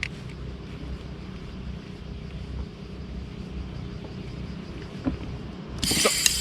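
Honda BF2DH two-horsepower single-cylinder four-stroke outboard motor running at a steady speed, a low even drone. Music comes in near the end.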